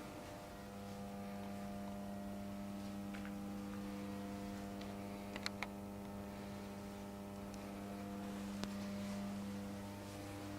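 Ungerer RM 3000/3/9 CNC industrial machine running with a steady electrical hum made of many layered tones, with a few sharp clicks about halfway through and one more a few seconds later.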